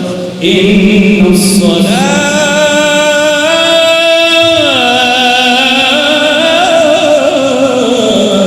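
A man sings one long melismatic phrase of a Sufi inshad in the Naqshbandi style, holding notes and bending them between pitches, over a steady low drone.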